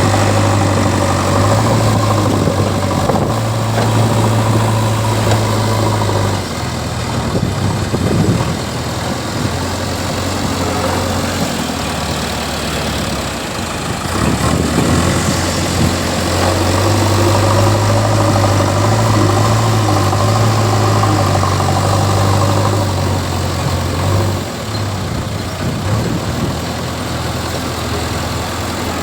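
JCB 3DX Xpert backhoe loader's diesel engine running steadily, getting louder twice: for the first six seconds or so and again from about sixteen to twenty-four seconds in, dropping back in between.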